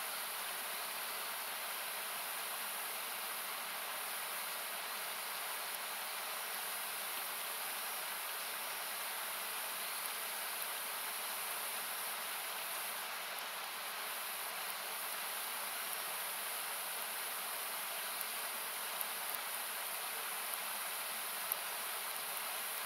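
Steady rushing hiss of a river running close by. It has been equalised, so it sounds like plain noise. A few sharp crackles of the wood fire come through in the last few seconds.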